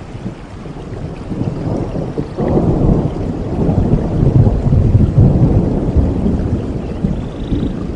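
Thunder rumbling over steady rain. The low rumble rolls in sharply about two and a half seconds in, swells, then slowly fades toward the end.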